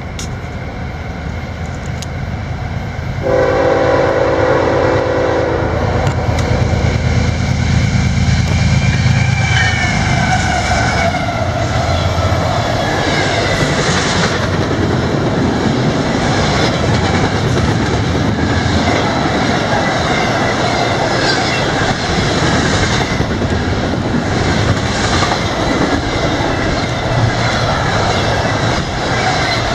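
CSX intermodal freight train led by a GE ES44AH diesel-electric locomotive passing close by: one horn blast of about three seconds a few seconds in, then the locomotives' diesel engines rumble past. After that the intermodal cars roll by with steady wheel clatter and wavering high squeals.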